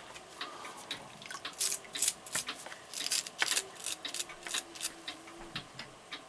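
Brass brush scrubbing clock movement parts wet with ammoniated cleaning solution, in short, irregular, scratchy strokes during the initial cleaning that removes hardened grease.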